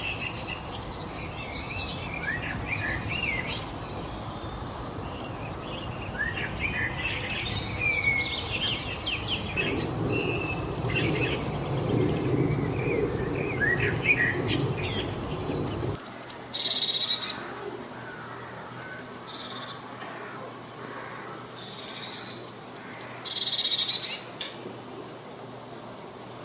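Several songbirds chirping and trilling over a steady background hiss. About two-thirds of the way through, the sound switches abruptly to a quieter background, where one bird repeats a short, very high note every second or two among a few louder calls.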